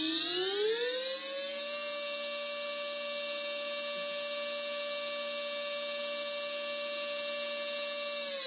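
KaVo PowerGrip dental-lab micromotor spinning up: a high whine rises in pitch over the first second and a half, then holds steady at top speed.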